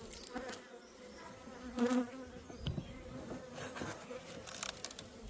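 Honeybees buzzing in a steady hum around an opened hive, with a few short scrapes and knocks as the hive is opened.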